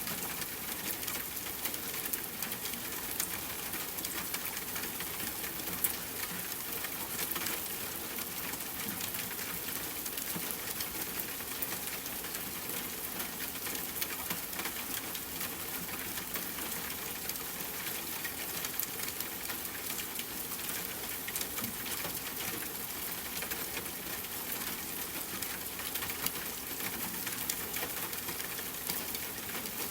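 Steady rain falling on a tent, an even hiss with many small sharp ticks scattered through it, mixed with a campfire crackling.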